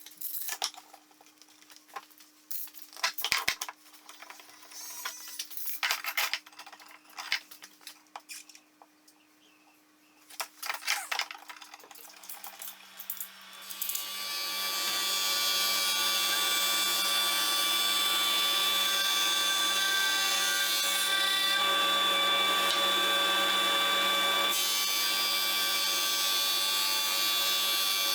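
Scattered clicks and knocks of workpieces and tools being handled. About halfway through, an electric power tool starts up and runs steadily.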